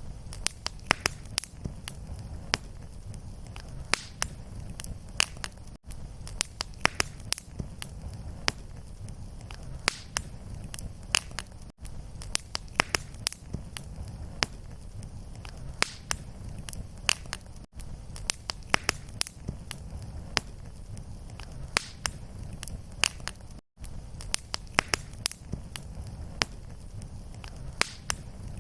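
Fireplace fire crackling: frequent sharp pops and snaps over a steady low rumble of flame. A short recording looping, with a brief dropout about every six seconds where it repeats.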